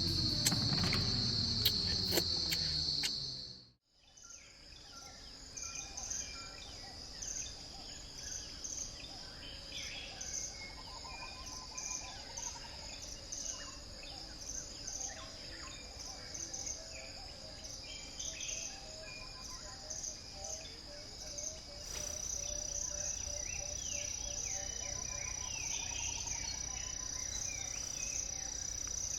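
Rainforest ambience: a steady high-pitched insect drone with scattered short bird chirps, and a second, higher insect tone joining about two-thirds of the way through. Background music at the start fades out within the first four seconds.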